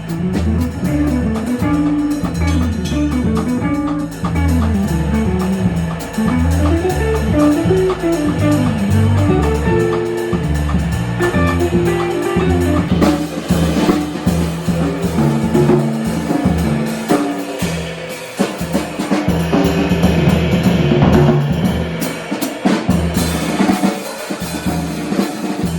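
Jazz quartet playing live: a stepping bass line under a drum kit, with other instruments carrying the melody above. The drums and cymbals get busier about halfway through.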